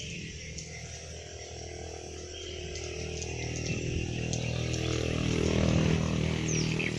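A low, steady motor hum that grows louder through the second half, over high, continuous chirping and buzzing of insects and birds.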